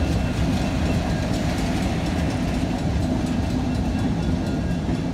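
Diesel locomotive passing close by with its engine running, then the train's passenger coaches rolling past, steel wheels clicking over the rails in a steady low rumble.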